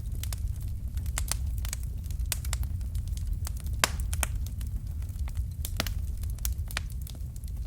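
Wood fire crackling and popping, with sharp irregular pops, a few louder ones near the middle, over a steady low rumble of the flames.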